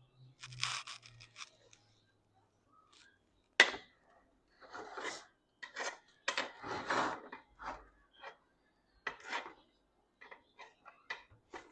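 Plastic bag crinkling and rustling in irregular bursts while being handled, with a sharp knock about three and a half seconds in and a few light clicks near the end.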